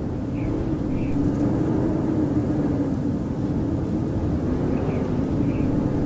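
Howling blizzard wind: a steady rush of low noise with a howling tone that wavers in pitch, and a few faint high chirps.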